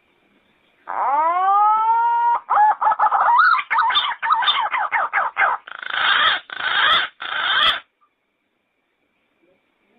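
Yellow-footed green pigeon singing: a rising whistled note starts about a second in, followed by a run of quick warbling notes and then several rougher, fuller notes, ending abruptly near eight seconds.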